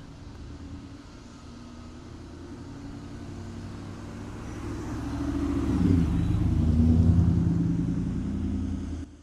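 Ford F-150 Tremor's exhaust running through a custom MRT V2 muffler, a low rumble that grows louder over the first six seconds, holds, then cuts off near the end.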